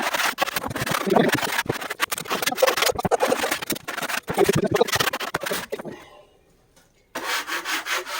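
Rasping strokes of a hand file on a dull saw chain. The strokes stop for about a second some six seconds in, then resume evenly at about two to three a second.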